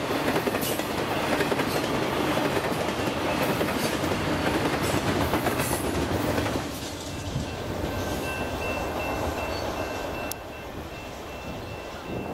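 Double-stack intermodal freight train rolling past, its railcar wheels running on the rails. The rolling noise falls off about halfway through and again near the end, and a faint, steady, high whine comes in during the last few seconds.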